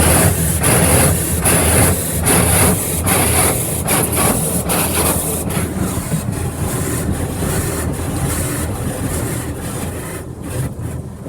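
High-pressure water jets of an Autec Evolution automatic car wash blasting against the car's body, heard from inside the cabin: a loud spray hiss over a low pump hum, pulsing a little under once a second as the jets sweep, strong enough to shake the car. The spray eases off near the end.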